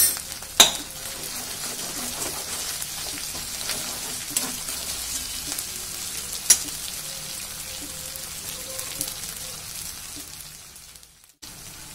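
Spice paste frying and sizzling in oil in a metal kadai (wok), stirred with a spatula, with a few sharp clinks of the spatula against the pan. The sound cuts out briefly near the end.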